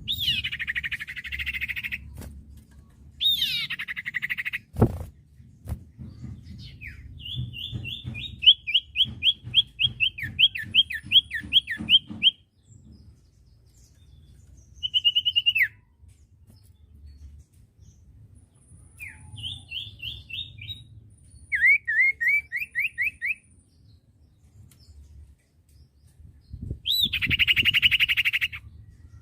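Common iora (cipoh) song: loud harsh chattering bursts at the start, around three seconds in and near the end. Between them comes a fast run of sharp repeated notes, about four a second, then a few shorter runs of rising notes, over a faint low background rumble.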